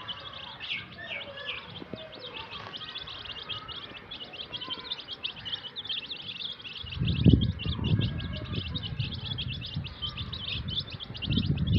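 A flock of chicks cheeping nonstop, a dense run of rapid high peeps. From a little past halfway, a low rumble joins in, loudest just after it starts and again near the end.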